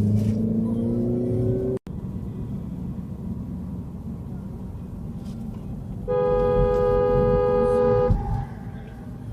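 A vehicle engine accelerating, its pitch rising, cut off abruptly. Then steady road rumble, and about six seconds in a car horn sounds one steady blast of about two seconds.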